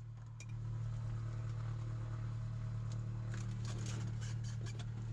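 Cessna 182's piston engine idling after landing, a steady low drone heard inside the cabin without headsets. The drone grows a little louder about half a second in, and a run of light clicks and rattles comes near the end.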